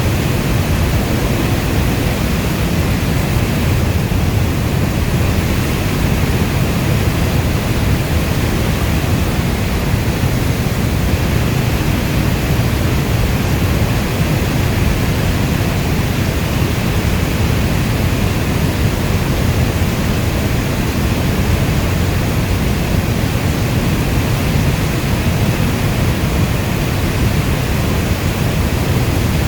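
Steady heavy rainfall, an even hiss with a deep low rumble, with no distinct drops, thunder or other events standing out.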